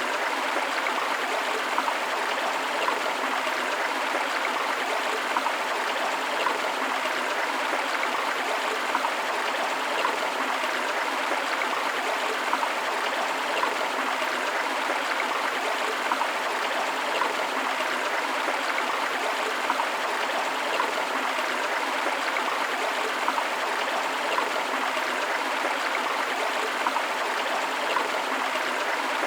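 River water flowing steadily: a continuous rushing, babbling noise with small splashes popping up throughout and very little deep rumble.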